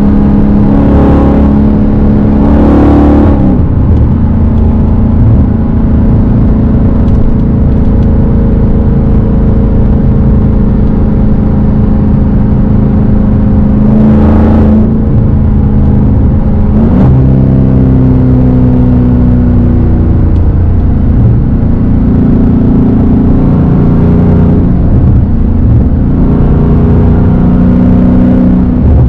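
Dodge Hellcat's supercharged 6.2-litre V8 through a straight-piped exhaust, running loud under way, its pitch stepping up and down with throttle and gears. A few short rushing noises sound near the start and about halfway through.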